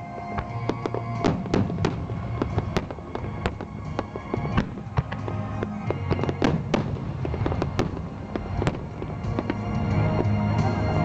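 Aerial fireworks bursting in rapid succession, many sharp bangs and crackles, with music playing behind them.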